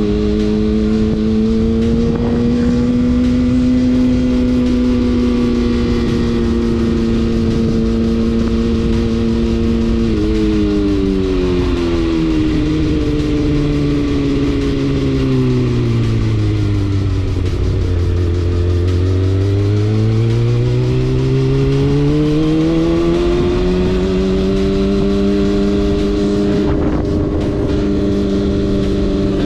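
Motorcycle engine running under way, its note steady at first. About ten seconds in it drops, sinks steadily to a low point near the middle as the bike slows, then rises again as it accelerates back to its earlier cruising pitch.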